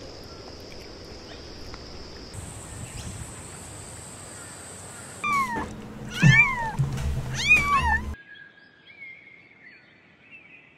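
Kittens mewing: a few loud, high mews that arch up and down in pitch, starting about five seconds in, after a stretch of steady hiss with a thin high whine. Near the end, only a faint high warbling remains.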